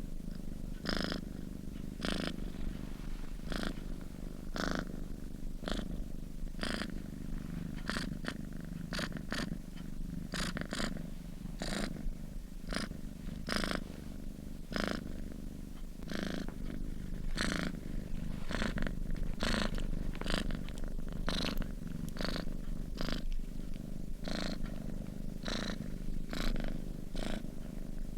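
A sleeping domestic cat purring steadily: a continuous low rumble, with a soft breathy stroke roughly once or twice a second as it breathes in and out.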